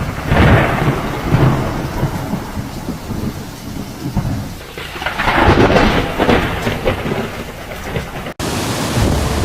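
Hurricane rain and wind, a loud steady rush that swells in two gusts with low rumbling.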